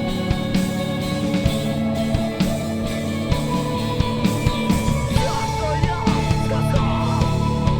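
Rock band playing live, with electric guitars and a drum kit keeping a steady beat. A long high note comes in about three seconds in and is held again later.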